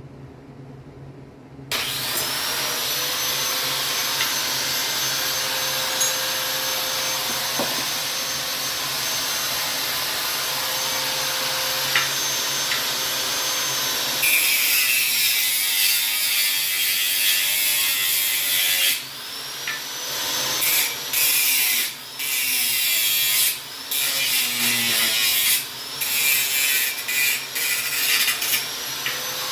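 A power grinder spins up with a rising whine and runs steadily. About halfway it turns to a louder, hissing grind. In the last third it stops and restarts several times, spinning up again each time.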